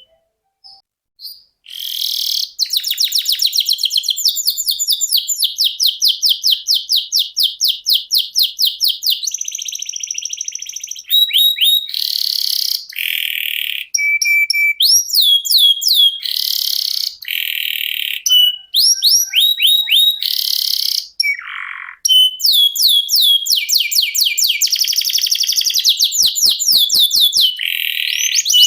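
Domestic canary singing a long rolling song: fast trills of repeated short notes, switching from one roll to the next every second or two. The song starts after a short pause near the beginning.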